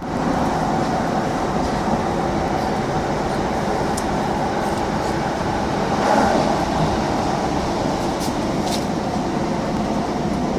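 Inside a passenger train carriage on the move: the steady running rumble and hiss of the train, with a faint steady tone and a brief swell about six seconds in.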